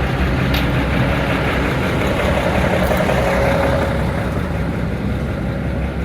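Inline-six Cummins diesel engine of a General Electric 65-ton center-cab locomotive idling steadily.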